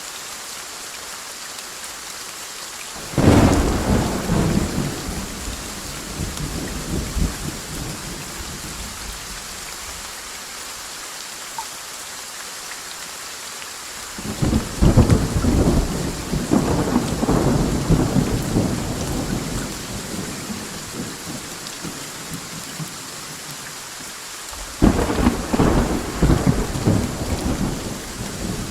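Steady rain with three claps of thunder, each breaking suddenly and rumbling off over several seconds: about three seconds in, around the middle, and near the end.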